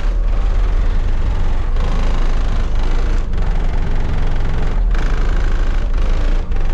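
Car engine running with a deep low rumble, with music in the background. The sound cuts out briefly several times.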